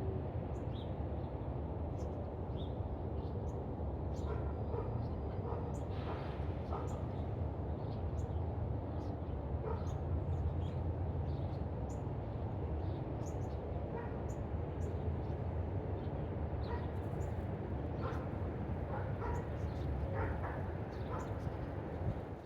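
Short, high chirps from small birds scattered throughout, over a steady low rumble.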